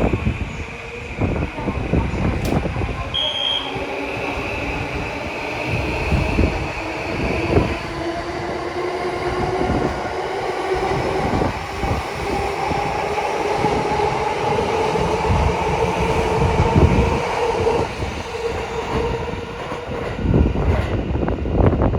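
E235 series 1000 electric multiple unit accelerating away from a station. Its traction motor and inverter whine rise slowly in pitch, over the clatter of wheels on rail joints. A steady high tone runs through the first few seconds.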